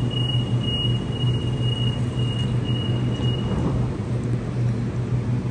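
Waratah double-deck electric train departing an underground platform, with a steady low hum throughout. A high, thin beeping tone sounds for the first three and a half seconds or so, then stops.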